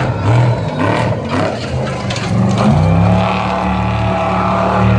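Off-road race truck engine revving in short, uneven surges, then climbing about halfway through and holding a steady, loud drone.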